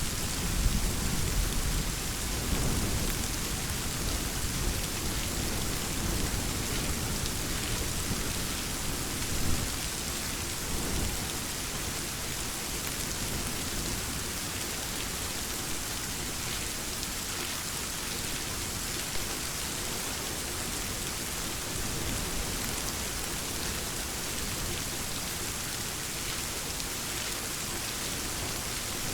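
Steady rain falling, with a low rumble of thunder in the first few seconds that dies away, leaving an even hiss of rain.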